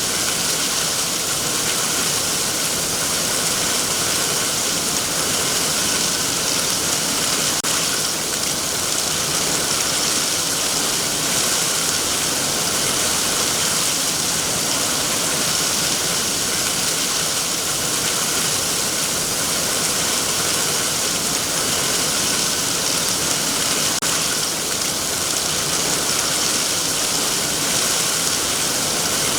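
Heavy rain falling steadily on trees, a dense even hiss of drops on leaves with no letup.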